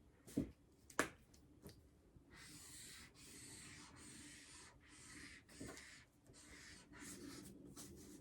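Marker drawing on paper: a couple of short clicks, then from about two seconds in a series of faint scratchy strokes, each lasting half a second to a second, as a cloud outline is traced.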